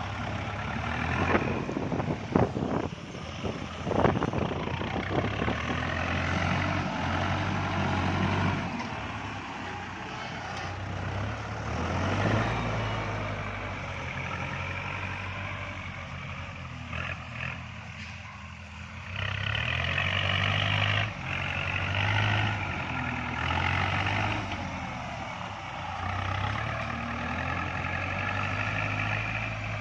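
Kubota MU4902 tractor's diesel engine running steadily under load as it pulls a disc plow through overgrown, scrubby ground. Sharp cracks and knocks come in the first several seconds, and the engine gets louder and harsher for a few seconds past the middle.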